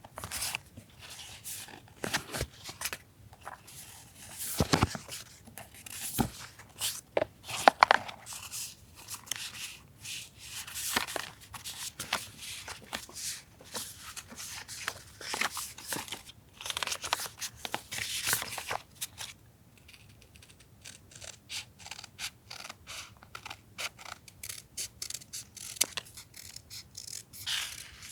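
Close-up paper-craft sounds from journal collage work: paper and stickers being handled and rubbed, with irregular crinkles, scrapes and sharp clicks throughout.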